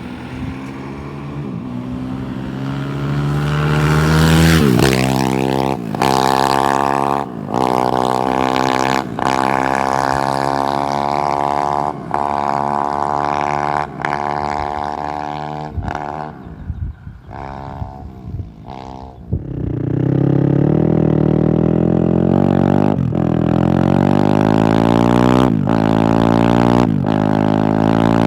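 XZ 250 motorcycle with an Akrapovič aftermarket exhaust accelerating hard through the gears, the engine note climbing and breaking off briefly at each shift. About two-thirds of the way through it backs off and the note falls away, then it pulls through the gears again.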